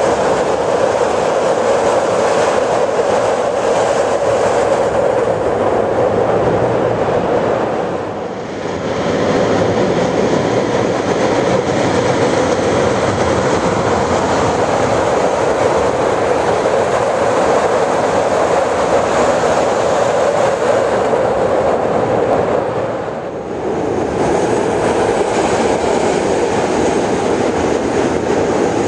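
CTA 'L' rapid-transit train running over a steel elevated structure: a steady, loud rumble of wheels on rail that eases briefly twice.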